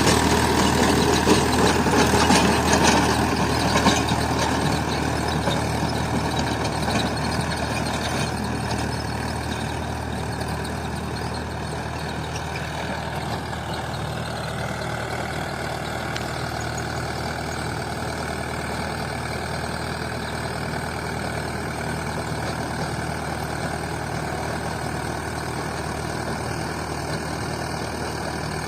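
Mahindra 575 DI tractor's diesel engine running steadily. It eases off in loudness over the first ten seconds, then holds even.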